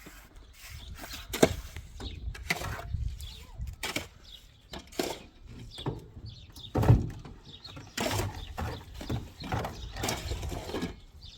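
Irregular knocking and scraping of hand tools at work, with two louder knocks about a second and a half in and about seven seconds in.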